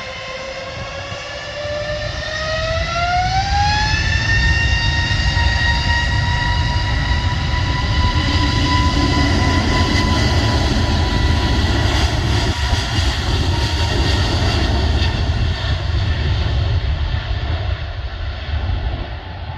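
Airliner's jet engines spooling up to takeoff thrust: a whine climbs in pitch over the first few seconds and then holds steady over a loud low rumble.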